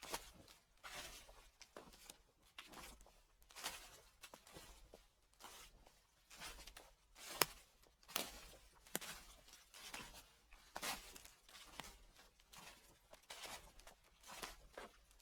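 Footsteps crunching through dry fallen leaves at an unhurried walking pace, each step a crackling rustle, with one sharper crack about halfway through.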